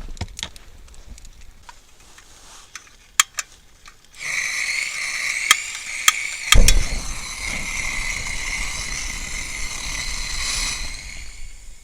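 Meat sizzling at a campfire: a steady hiss starts suddenly about four seconds in and fades near the end, with a few sharp cracks and one heavy thump partway through.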